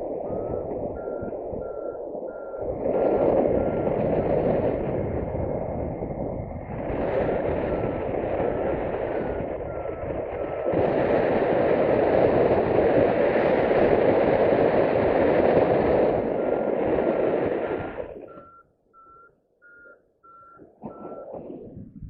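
Paragliding variometer beeping in short, evenly repeated tones that shift slightly in pitch, over loud wind rushing across the microphone in swelling gusts. The wind drops away near the end, leaving the beeps on their own. Beeping like this from a variometer signals that the glider is climbing.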